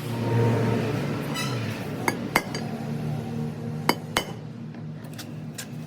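Sharp metallic clinks from metal parts or hand tools striking each other: about five separate strikes, bunched in the middle and one near the end, over a steady low hum.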